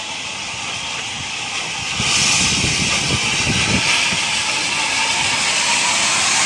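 A loud, steady hissing rush of noise that gets louder about two seconds in, with a low rumble underneath for a second or two.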